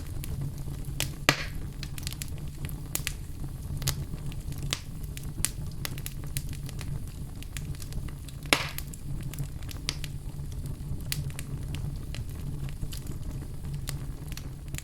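Wood fire crackling, many small sharp crackles over a steady low rumble, with two louder pops about a second in and about eight and a half seconds in.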